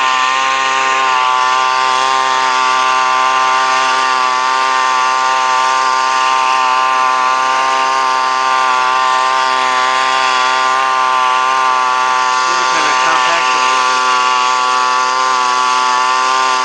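Gas leaf blower engine running at a steady speed, its pitch holding almost constant throughout.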